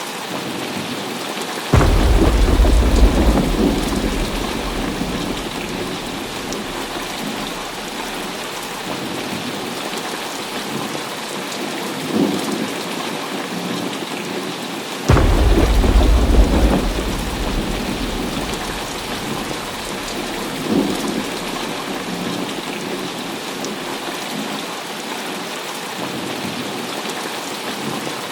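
Heavy rain falling steadily, with two sudden claps of thunder, about two seconds in and again about fifteen seconds in. Each rolls off into a low rumble over a few seconds, and fainter rumbles swell in between.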